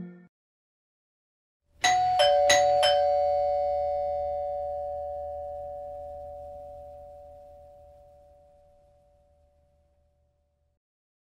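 Two-tone doorbell chime, a higher note followed by a lower one (ding-dong), struck with a few quick bright hits about two seconds in. The notes then ring on and fade away slowly over about eight seconds.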